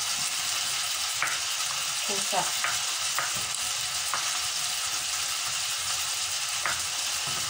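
Chicken pieces sizzling as they sauté in a pot on the stove: a steady frying hiss. A few sharp knife taps on a plastic cutting board stand out above it.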